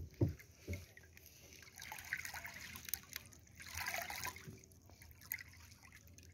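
Water splashing and trickling in two surges, about two and four seconds in, after two low thumps near the start.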